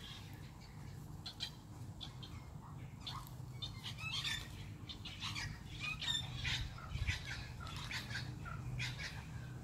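Faint, short, high bird chirps scattered through, thickest in the second half, over a low steady background hum.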